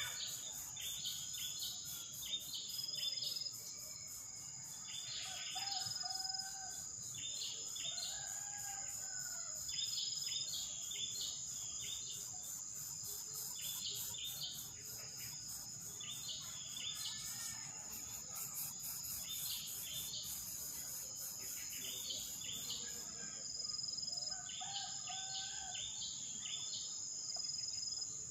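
Outdoor tropical ambience: a steady, high insect drone, with clusters of short bird chirps every couple of seconds and a few lower, curved whistled calls.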